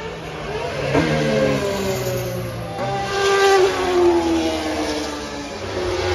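Car engines at speed driving past, the engine note swelling and then falling in pitch as each car goes by; loudest about three and a half seconds in.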